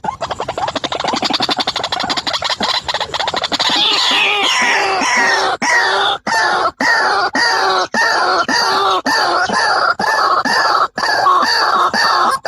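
White-breasted waterhen (ruak-ruak) calling: a fast rattling run of notes that, about four seconds in, settles into a steady series of repeated croaking notes, about three a second.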